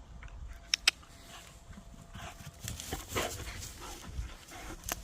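A dog panting softly and irregularly, with two short sharp clicks just under a second in.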